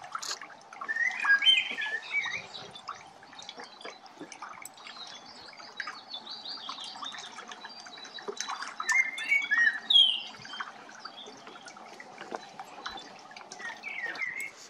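Birds calling in spells of wavering chirps and squawks: one about a second in, a longer run near the middle, and a short one near the end, over a steady background hiss.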